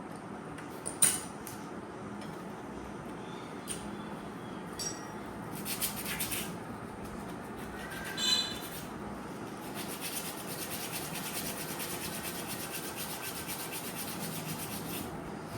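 Hand work on installation hardware: scattered clicks and scrapes, a short squeak about eight seconds in, then a fast, even rasping that keeps on through the rest.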